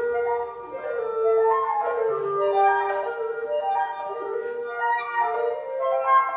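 Flute and two clarinets (one in C, one in B flat) playing a chamber piece together, several sustained melodic lines overlapping and moving from note to note.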